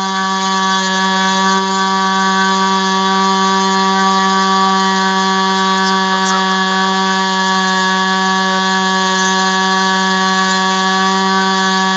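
ASP 25 two-stroke glow-plug model aircraft engine with a 10x6 propeller, running flat out on a test stand: a loud, steady, high-pitched drone that holds one pitch.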